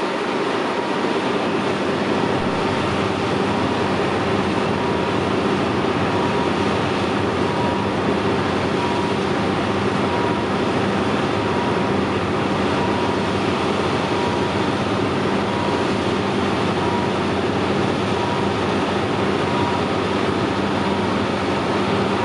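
Diesel train running steadily close by, a continuous engine sound with a steady hum, and a high tone pulsing on and off over it throughout.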